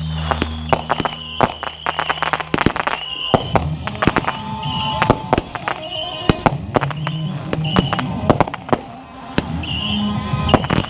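Fireworks going off in quick succession: many sharp bangs and crackling reports, some closely bunched, with no let-up.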